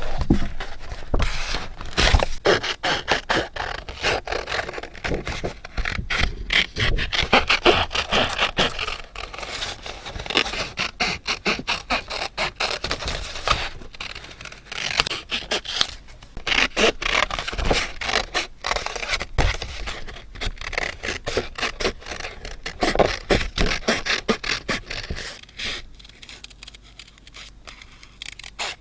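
Paper being scraped and rubbed in quick, dense strokes during scrapbooking, dying down near the end.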